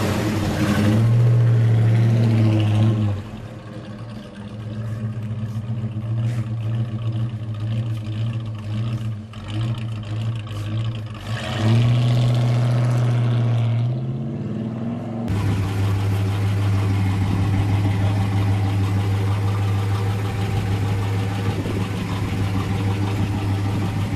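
Car engine running on the road: a steady low drone that falls away a few seconds in and returns about halfway through, then changes abruptly and runs on as an even drone.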